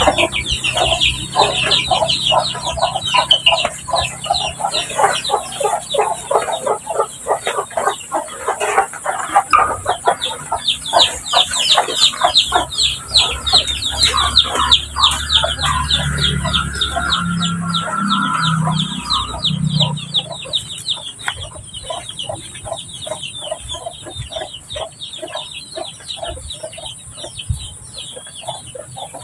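Chickens clucking, a dense run of short, rapid calls that thins out near the end.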